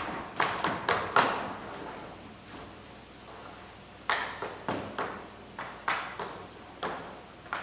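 A loose, irregular series of sharp knocks and taps on a hard surface, each dying away quickly. A cluster of them comes at the start, then a pause, and a second run of them follows.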